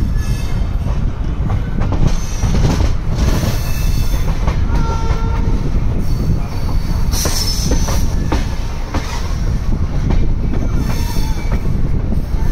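Express passenger train running on a curve, heard from the open door of one of its coaches: a loud, steady rumble of wheels on rail with clacks over joints. Brief high wheel squeals come twice, about five seconds in and again a couple of seconds later.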